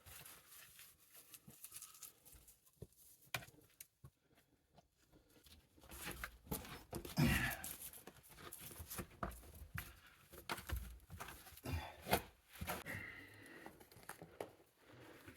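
Scattered rustling, scraping and small knocks of people moving over rock and timbers in a confined mine passage, with brief vocal sounds about seven and thirteen seconds in.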